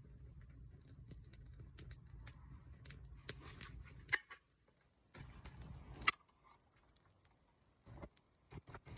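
Wood fire crackling with scattered sharp snaps and ticks over a low rumble. The rumble stops suddenly about four seconds in, returns briefly around five seconds, and then only a few louder snaps and knocks are left near the end.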